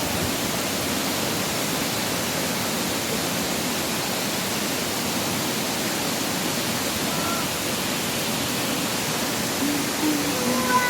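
Steady rush of falling water from a waterfall and the fast stream at its foot, an even noise with no breaks.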